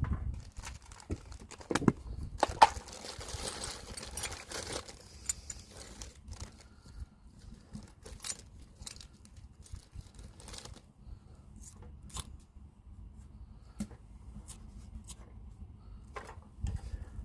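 Irregular clicks, clinks and rustling of objects being handled, with a longer stretch of crinkling or tearing noise about two to five seconds in.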